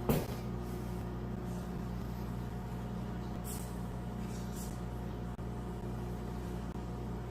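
Microwave oven running with a smartphone inside, a steady hum throughout. A sharp click right at the start.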